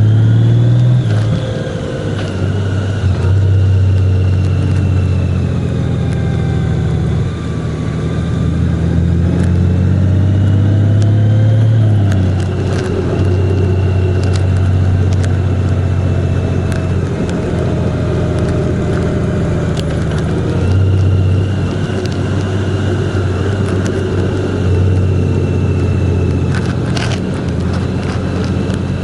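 A vehicle's engine running while driving along a road, with a strong low hum and road noise. The engine pitch rises and falls several times as the speed changes, dropping away around twelve seconds in and picking up again later. A few sharp clicks come near the end.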